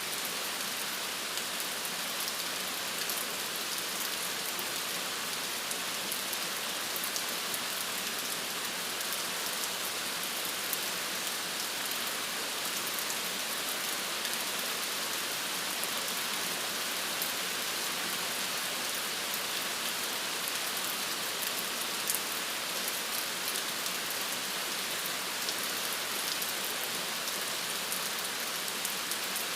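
Steady rain falling on a surface, an even hiss with many fine drop patters and no letting up.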